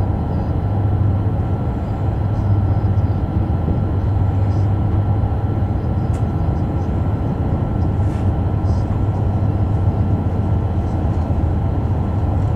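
E5 series Shinkansen running, heard in the passenger cabin: a steady deep rumble with a faint, constant high tone and a few light ticks.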